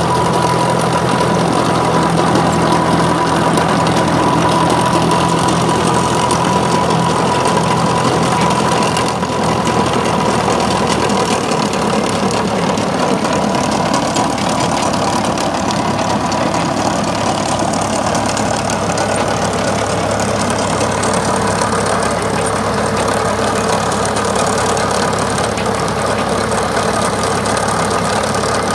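Tractor diesel engine running steadily, its note changing about ten seconds in.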